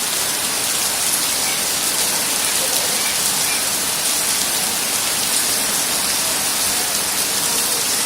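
Heavy rain falling steadily, a dense even hiss of drops hitting the ground.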